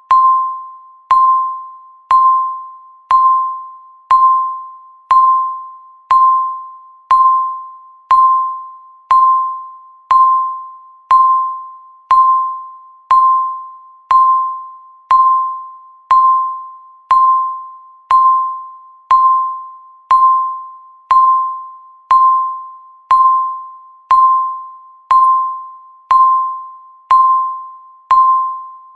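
Countdown timer beep sounding once a second: a single clear electronic tone that starts sharply and fades away before the next, ticking off each second of the count.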